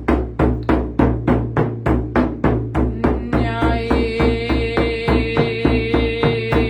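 Music with a steady, fast drum beat; about three seconds in, a sustained ringing tone joins over the drumming.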